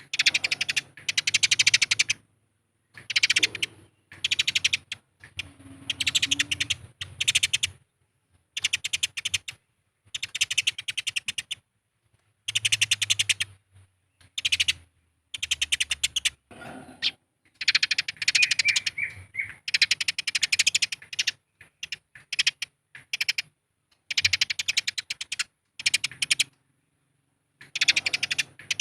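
Eurasian tree sparrows chattering: the fast, harsh, excited chatter of sparrows fighting. It comes in bouts of one to two seconds, with short silent gaps between them.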